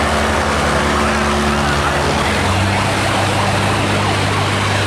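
Boat engines running steadily under a dense rush of noise; about two and a half seconds in, the engine tones shift to a different pitch.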